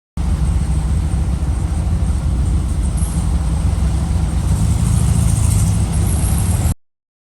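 A car running on the road: a steady low engine and road rumble that swells a little about five seconds in, then cuts off abruptly near the end.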